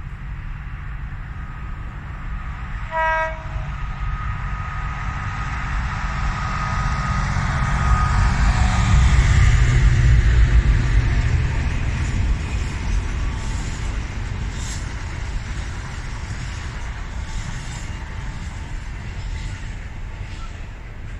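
Diesel-hauled freight train passing. The locomotive sounds one short horn toot about three seconds in. Its engine rumble swells to its loudest as it goes by, then the loaded wagons roll past with a light rhythmic clicking of wheels over the rail joints.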